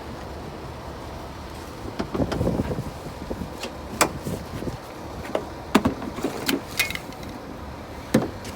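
A series of sharp clicks and clunks from a car's door and hood being opened, over a steady low rumble.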